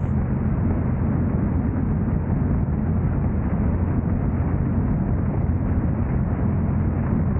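Steady low rumble of a car on the move: road and wind noise with engine drone, unbroken and even throughout.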